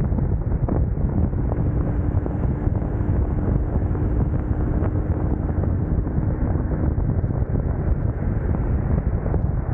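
Wind buffeting the microphone on a moving BMW R1150GS Adventure, with the motorcycle's boxer twin engine and road noise running underneath as a steady low rumble.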